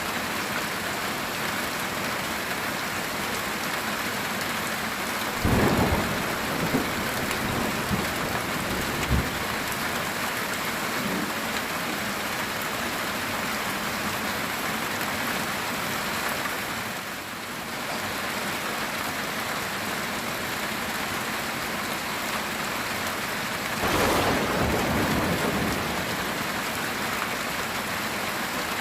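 Heavy rain falling steadily on a metal tin roof, with two rolls of thunder: one about six seconds in carrying a few sharp cracks, and another near the end.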